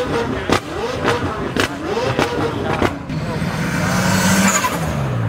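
A car engine revved in quick blips, about two a second, each a rise and fall in pitch with a sharp crack. Then a car accelerates toward the listener, louder and steadier, its pitch dropping near the end.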